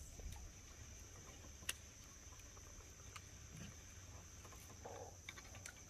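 Faint, steady high-pitched insect drone, like crickets, with a few light clicks and ticks scattered through it.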